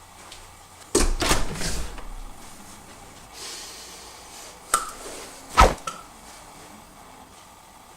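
A sudden clatter of several quick knocks about a second in, then a sharp click and a louder single knock a little past the middle, with a smaller knock just after.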